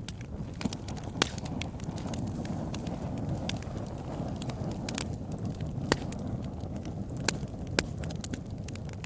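Fire burning in a fireplace: sharp crackles and pops at irregular intervals over a steady low rush of flame. A few pops stand out louder, about a second in and again around six, seven and eight seconds.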